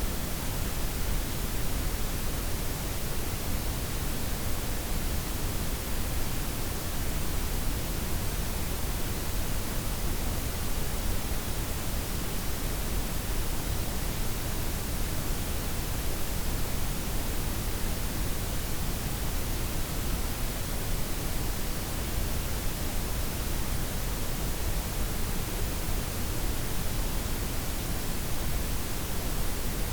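Steady blend of synthetic white, pink and brown noise, a smooth unbroken hiss with a deep low rumble underneath and the highs gently rolled off.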